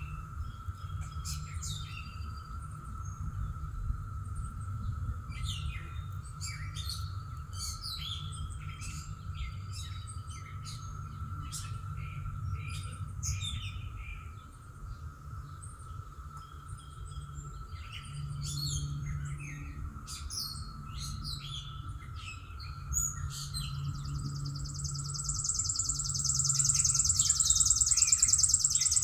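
Songbirds chirping and singing in short, repeated, mostly falling calls, over a steady faint high hum and a low background rumble. About 24 seconds in, a loud, high, rapidly pulsing trill starts and keeps going.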